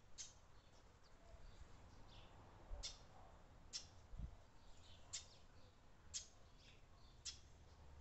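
Small birds chirping faintly: short, sharp high chirps about once a second, over a faint outdoor hush.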